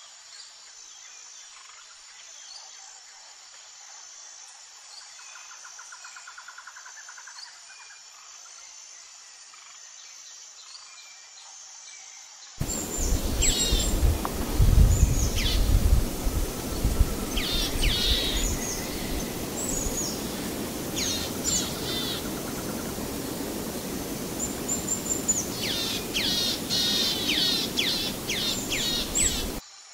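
Faint outdoor ambience with a soft trill, then a sudden switch about twelve seconds in to louder woodland ambience: small birds giving quick high calls that sweep downward, in bunches, over a noisy background with a low rumble strongest just after the switch.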